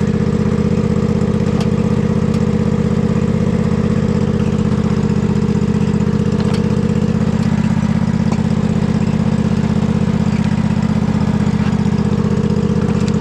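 Husqvarna riding mower's engine running at a steady speed.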